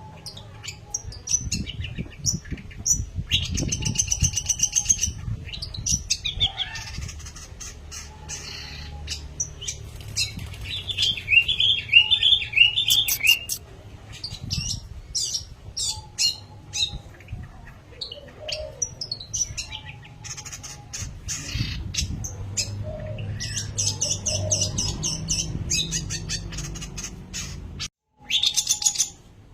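Long-tailed shrike (pentet) singing: a varied, busy run of high chirps, trills and fast repeated notes, with a low rumble underneath.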